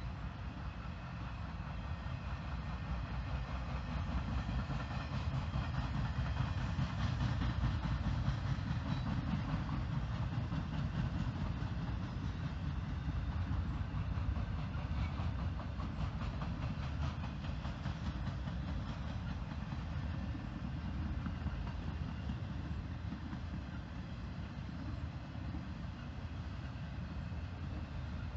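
A long train rolling past, a steady rumble of its cars on the rails that swells to its loudest about seven seconds in and then eases off a little.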